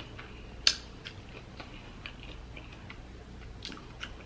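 A person chewing a mouthful of deep-fried, breaded king crab close to the microphone, with scattered small mouth clicks and one louder click just under a second in.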